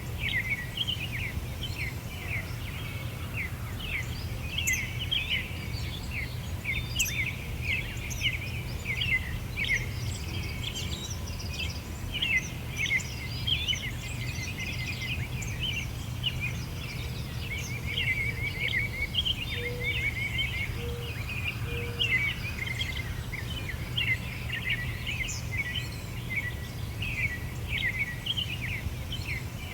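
Many small birds chirping and twittering together in a dense, continuous chorus of high, quick calls, over a steady low rumble.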